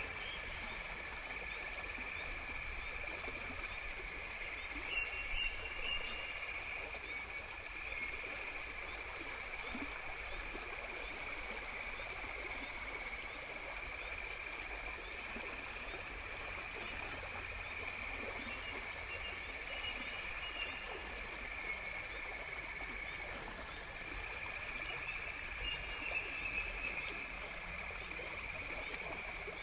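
Nature ambience: a steady, even drone of insects with a few short bird chirps. About three-quarters of the way through comes a fast, high, pulsing trill of roughly four pulses a second.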